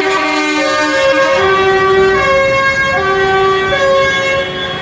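A loud tune from a passing parade vehicle, played in clear held notes that step up and down in pitch.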